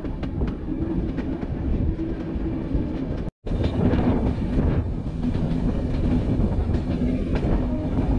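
Passenger train running on the track, with a steady rumble and wheels clicking over rail joints. The sound drops out for an instant about three seconds in.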